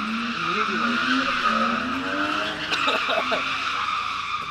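A car spinning donuts, its tyres screeching steadily while the engine runs at high revs, the engine pitch wavering and slowly climbing.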